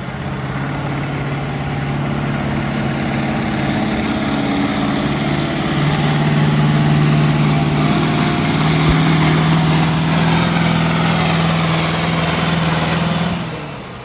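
Diesel pulling vehicle under full throttle, loud and steady as it drags a weight-transfer sled down the track. Its pitch steps up about halfway through, and it shuts off sharply near the end as the run finishes.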